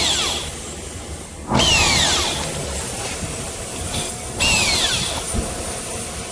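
Power drill or screwdriver run in short bursts, each starting suddenly with its motor pitch dropping over about a second; two bursts, about 1.5 and 4.5 seconds in.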